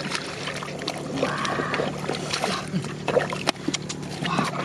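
Splashing and sloshing of muddy water as fish are grabbed by hand in a drained rice field, with many short wet slaps and clicks over a steady low hum.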